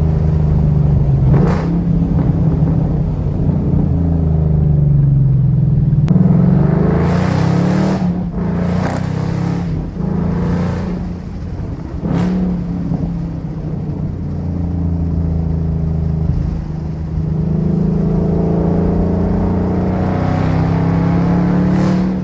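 2013 Mustang GT's 5.0 V8 running through a resonator-deleted exhaust, with the factory headers, cats and H-pipe and aftermarket axle-backs. It is driving, with the revs rising about seven seconds in and again near twenty seconds, and a few short sharp sounds in between.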